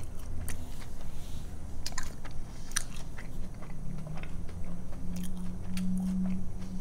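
Close-miked mouth sounds of a person chewing food: scattered wet clicks and smacks, with a low held hum toward the end.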